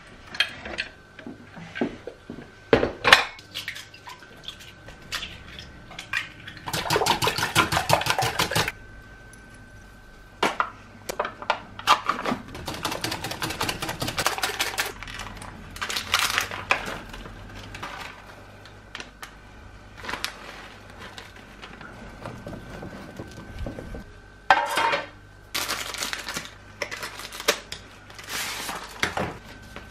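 Kitchen food preparation: dishes and metal utensils clattering and knocking, with several runs of fast, even tapping of a utensil against a bowl or dish lasting a second or two each.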